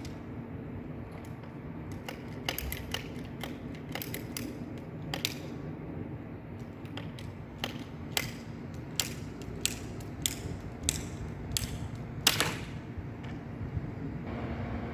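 Sharp clicks and creaks from hand work on plumbing fittings, coming irregularly about once a second and strongest near the end, over a steady low hum.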